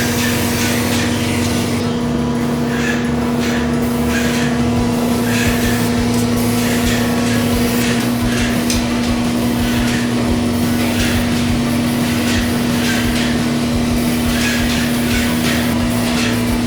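Airless paint sprayer running while epoxy primer is sprayed: a steady machine hum under a hiss that comes and goes. A second, higher hum drops out about halfway through.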